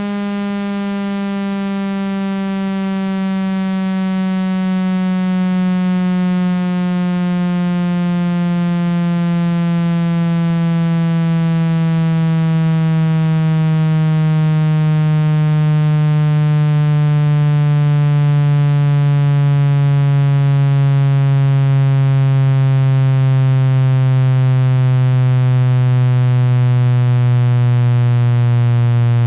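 Loud, buzzy electronic tone with many overtones, gliding slowly and evenly downward in pitch through the low range around 165 Hz: a speaker-cleaning tone sweep meant to vibrate water and dust out of a phone speaker.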